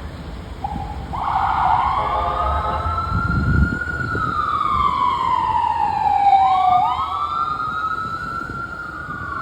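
Emergency vehicle's electronic siren in a slow wail: it starts about a second in, rises, falls slowly and rises again about two-thirds of the way through.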